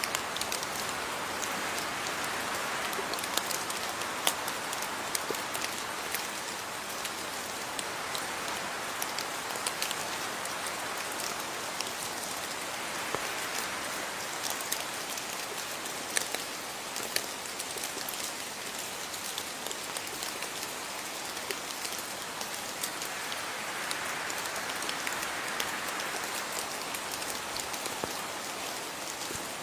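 Steady rain falling, a constant hiss dotted with many sharp drop-ticks on a surface.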